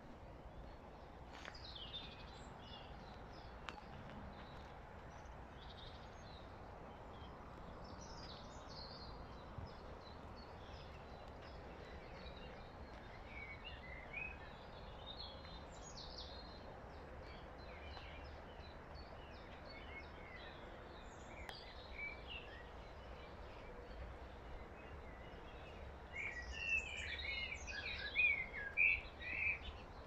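Several small birds singing and chirping over a steady outdoor hiss, with a louder burst of song near the end.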